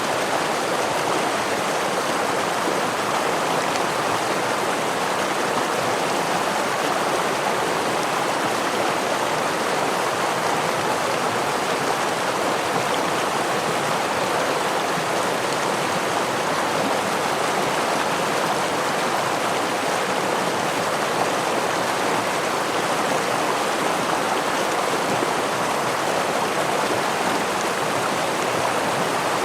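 Forest stream with a small waterfall: a steady, unbroken rush of running water.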